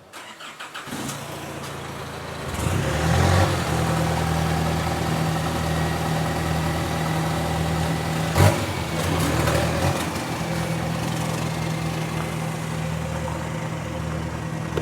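Car engine starting up about two and a half seconds in, then idling steadily, with a single sharp knock partway through.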